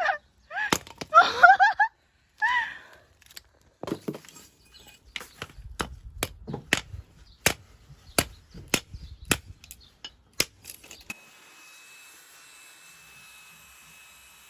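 Firewood being split by hand: a run of sharp chopping strikes with cracking wood, roughly two a second. The strikes stop a few seconds before the end, and a steady faint hiss follows.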